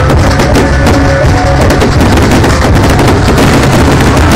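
Aerial fireworks going off in quick succession, a very loud, continuous mass of bangs and crackling, with music playing underneath.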